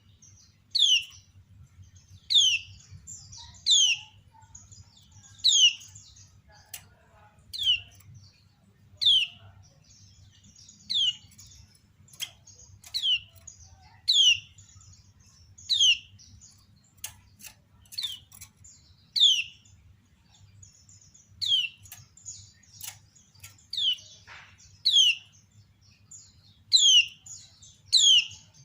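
Female kecial kuning (a yellow white-eye) giving its 'ciak' call: short, sharp chirps falling in pitch, repeated about every second and a half, with fainter chirps in between. It is the female's call, used to lure males into answering and singing.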